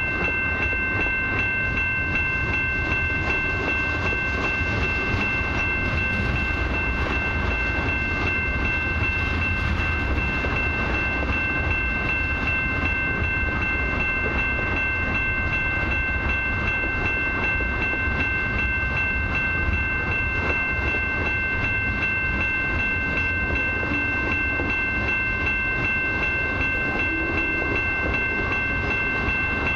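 Long freight train of loaded ethanol tank cars rolling past at a steady speed: a continuous low rumble and rattle of wheels on rail. A steady high-pitched ringing of several held tones sits over it.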